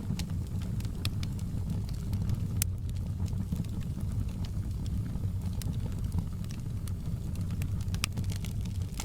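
Wood fire in a fireplace crackling: scattered sharp pops over a steady low rumble.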